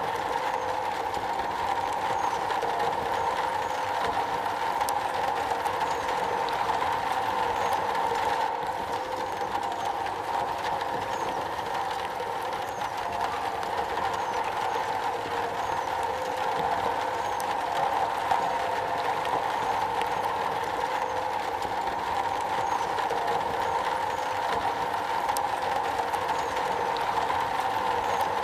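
Steady rain falling on a metal roof, a dense even patter that keeps a constant level throughout.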